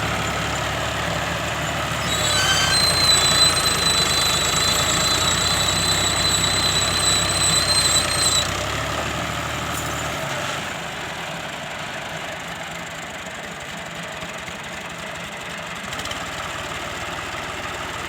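Tractor diesel engine revving hard under load, trying to free a trolley stuck in mud. A high, steady squeal sounds over it from about two seconds in to about eight and a half seconds, and the engine then eases back to a lower, steadier run.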